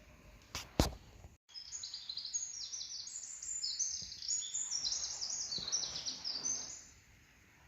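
Two sharp clicks, then small birds chirping and twittering in a dense, rapid, high-pitched stream for about five seconds, stopping near the end.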